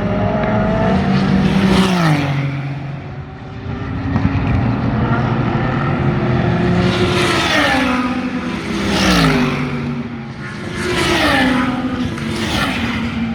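Super GT race cars passing close at speed one after another, about five pass-bys, each engine note swelling and then dropping in pitch as the car goes by.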